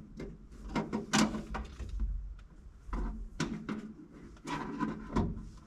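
Irregular clicks and knocks of seatbelt hardware and tools being handled while a belt anchor is fitted into place.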